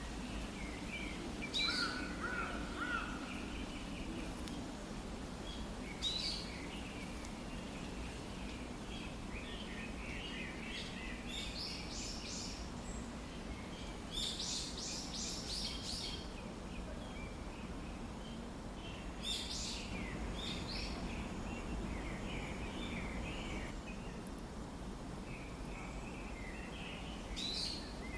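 Short, high bird chirps and calls in scattered bouts every few seconds, over a steady low hum of background noise.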